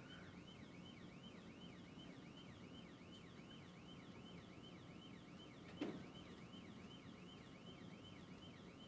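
Police siren on yelp: a faint, fast up-and-down tone, about three sweeps a second. A single knock comes about six seconds in.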